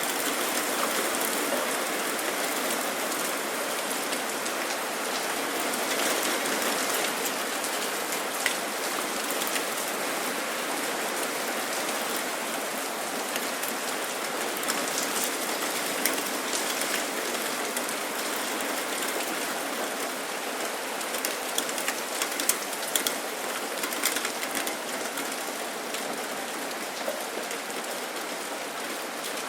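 Steady rain falling, an even hiss with individual drops ticking on a surface now and then, a few sharper drops between about 21 and 24 seconds in.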